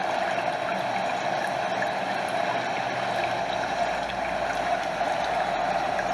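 A stream running steadily, water flowing over a small waterfall in a continuous, even rush.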